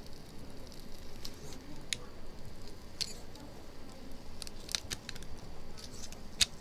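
Small knife blade scraping and ticking against an LCD panel as the polarizer is worked off it, in scattered irregular scratchy clicks.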